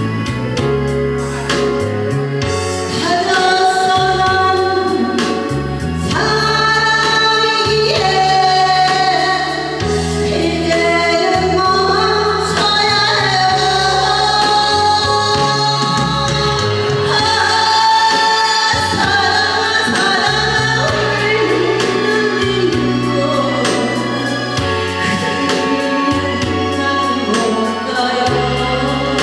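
A Korean song: a woman singing over a full backing track, with the bass line moving in steady steps beneath the melody.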